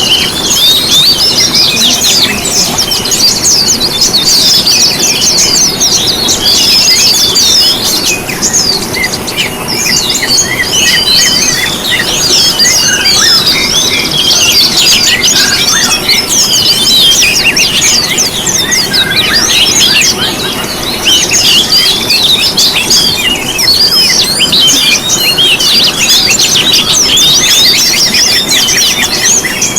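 Dense chorus of many small songbirds chirping and twittering rapidly and continuously, high-pitched and unbroken, with many calls overlapping.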